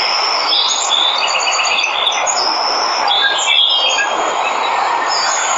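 Steady rushing of a waterfall, with several jungle birds chirping over it in short whistled notes and quick trills.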